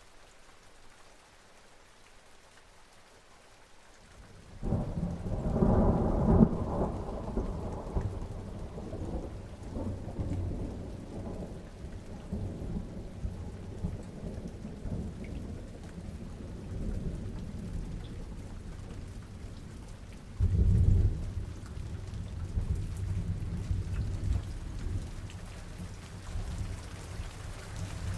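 Steady rain falling during a thunderstorm. A long rumble of thunder rolls in about four seconds in and is loudest a couple of seconds later, and a second thunder rumble breaks about three-quarters of the way through.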